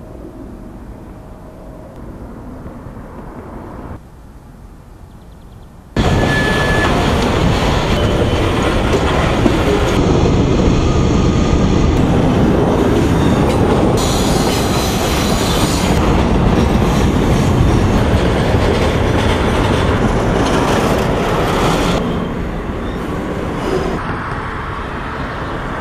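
A string of short railway recordings cut together. The first few seconds are quieter, then about six seconds in a freight train is heard passing close by: a loud rumble of wheels on the rails, with a short high squeal just after it starts. It eases a little near the end.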